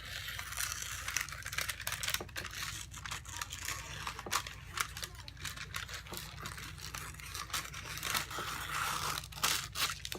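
Scissors cutting through a sheet of parchment paper, the paper crinkling and rustling with a run of small snips and crackles.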